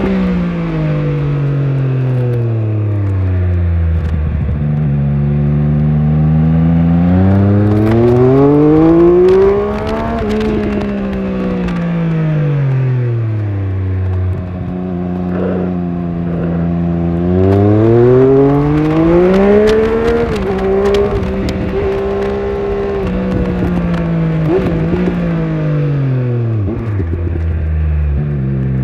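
Triumph Speed Triple 1200RS's 1160 cc inline three-cylinder engine under way: the revs drop off as it slows, climb hard twice under acceleration, hold steady for a few seconds, then fall again and pick up near the end.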